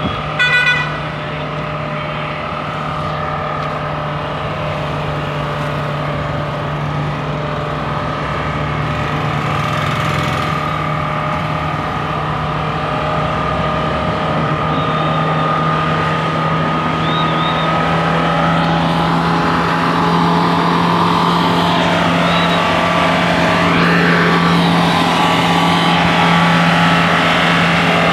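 Mahindra Scorpio engine running steadily, with a constant hum and a high whine over it, presented by the owner as a problem in the engine. A brief sharper sound comes within the first second, and the sound slowly grows a little louder.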